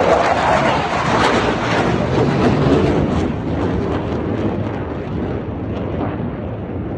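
Fighter jet engine noise from a jet passing over, loudest at the start and slowly fading as it moves away.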